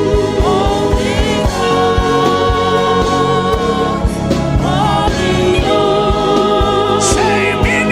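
Gospel worship music: singing in long held notes that glide between pitches, over a steady drum beat.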